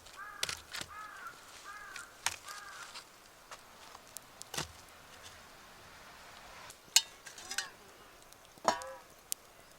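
A crow cawing, a quick run of four short calls and then two more falling calls later, with a few sharp clicks or knocks in between, the loudest about seven seconds in.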